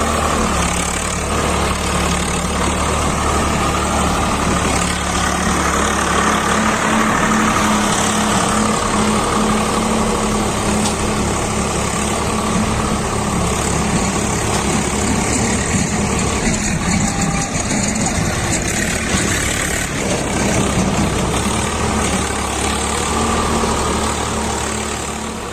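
Swaraj 744 FE tractor's three-cylinder diesel engine running steadily under load, pulling in soil. Its low engine note changes about seven seconds in and again near twenty seconds.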